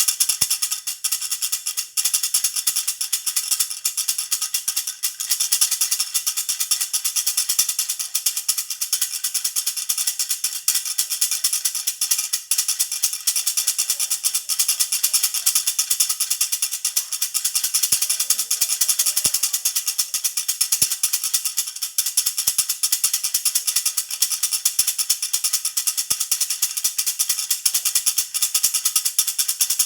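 Baby rattle (jhunjhuna) shaken rapidly and without a break, a dense, steady, high jingling rattle.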